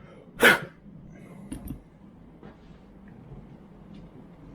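A dog barks once, a short loud bark about half a second in, followed by a few faint small clicks.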